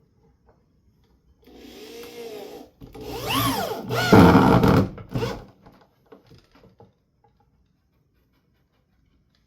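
Corded electric drill driving a screw into the wall, in two pulls of the trigger: a short softer run, then a longer, louder one in which the motor speeds up and slows under load.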